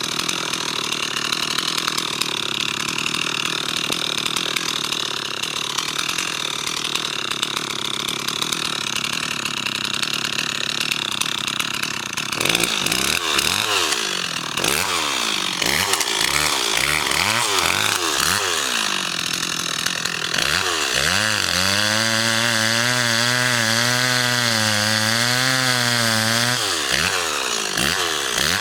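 Chainsaw running steadily, then revved up and down several times from about twelve seconds in, and held at high revs for about five seconds before dropping back.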